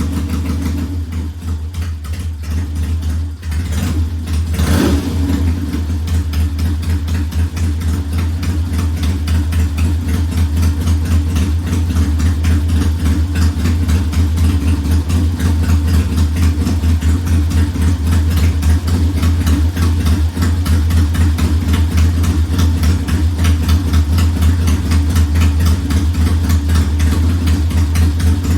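1969 Triumph T100's 500 cc parallel-twin engine idling steadily, with a short blip about five seconds in, after which it runs a little louder.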